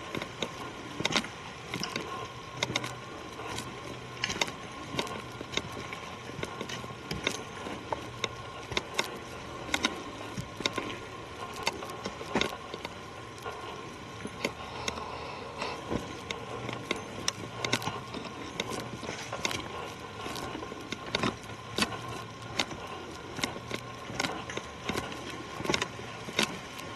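Footsteps walking along a woodland trail, a short crunch at each step about once a second, over a steady background hum.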